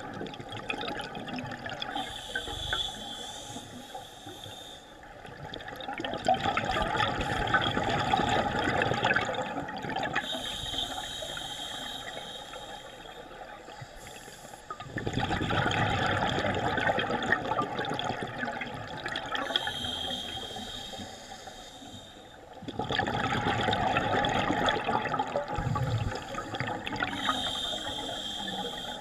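Scuba diver breathing through a regulator underwater: a short hissing inhale, then a long bubbling rush of exhaled air, repeating about every eight seconds.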